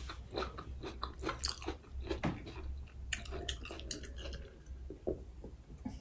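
Close-up eating sounds: irregular chewing and biting with crunchy mouth clicks, many small smacks a second.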